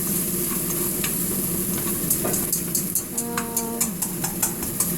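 Ginger sizzling in hot oil in a frying pan while it is stir-fried, with a steady hiss throughout. From a little past two seconds in, chopsticks click against the pan about three or four times a second, and a short steady tone sounds briefly a little past three seconds.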